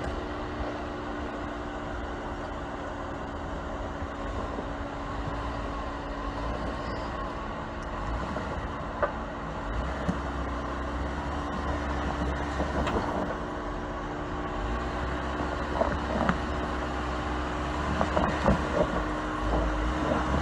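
Off-road vehicle's engine running steadily at low speed while crawling. From about nine seconds in there are scattered sharp knocks, more frequent near the end.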